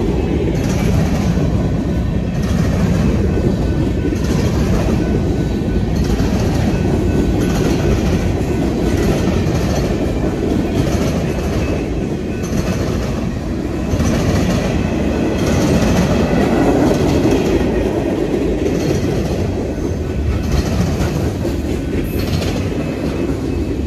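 Freight train cars (covered hoppers and boxcars) rolling past close by: a steady rumble with the repeated clickety-clack of wheels passing over rail joints.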